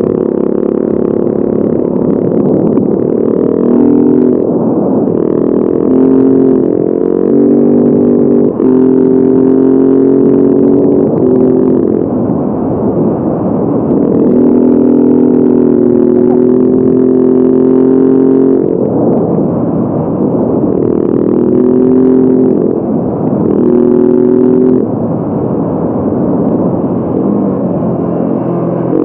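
Motorcycle engine running while riding, its pitch holding steady and then changing abruptly again and again as the revs rise and fall through the gears.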